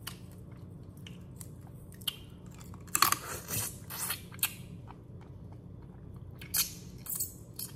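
Close-miked chewing and crunching as boiled crawfish are cracked open and eaten, in a few irregular bursts, loudest about three seconds in and again near the end.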